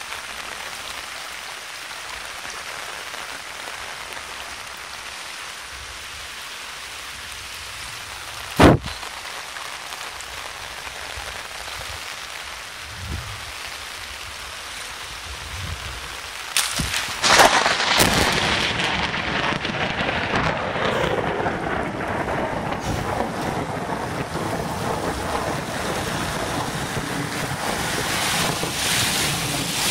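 Heavy rain falling steadily in a thunderstorm. A single sharp crack comes about nine seconds in. From about seventeen seconds the sound swells into a louder rumble of thunder over heavier rain.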